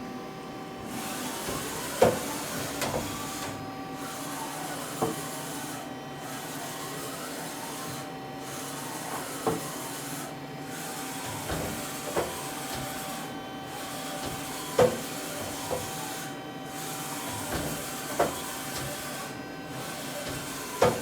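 Okuma VTM100 CNC vertical turning center running: a steady machine hum with a hiss that cuts out briefly every two to three seconds, and a sharp clunk every few seconds.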